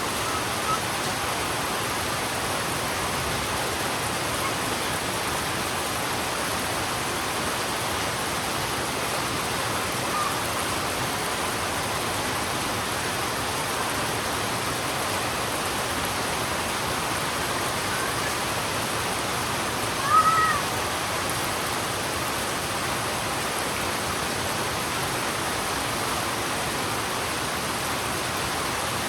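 Heavy rain falling in a steady, even hiss. About two-thirds of the way through, a short high call rises and falls briefly over the rain.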